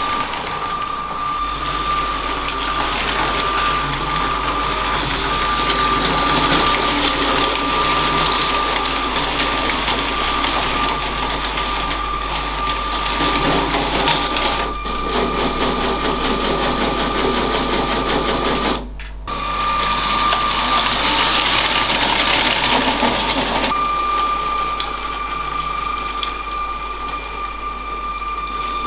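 LEGO train running on plastic track: a steady high electric-motor whine over the rattle of wheels on the rails. The sound breaks off briefly twice, about midway and two-thirds of the way through.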